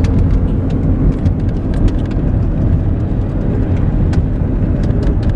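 Steady low rumble of a vehicle driving along the road, with a few light clicks scattered through it.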